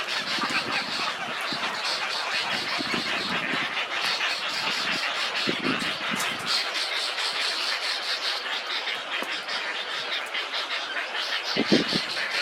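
Dense, steady chorus of insects and birds in a flooded rainforest, with a few short low animal calls rising out of it, about four times.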